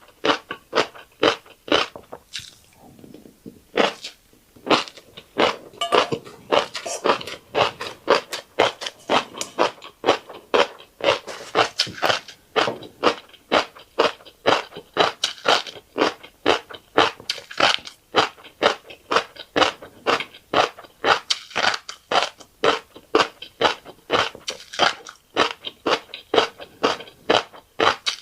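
Close-miked chewing of fish roe and rice: rapid, crisp crunching and popping, about two to three crunches a second, with a brief lull about three seconds in.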